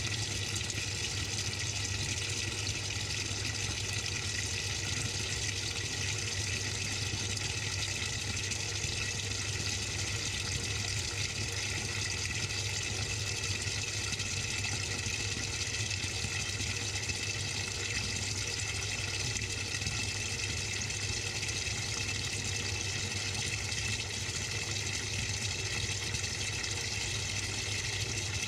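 Samsung 6.5 kg top-load washing machine filling with water, heard from inside the drum: a steady rush of water with a low hum beneath it.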